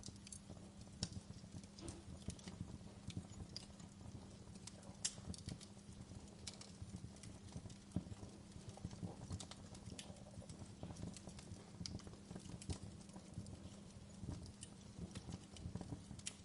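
Wood fire crackling in a fireplace: irregular snaps and pops, a few sharper ones, over a faint steady low hum.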